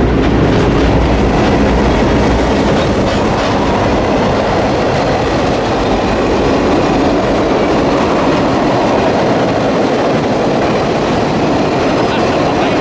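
Freight train passing close by: a diesel locomotive's low drone fades out in the first couple of seconds, leaving the steady rolling noise of freight cars with the clicking of wheels over the rail joints.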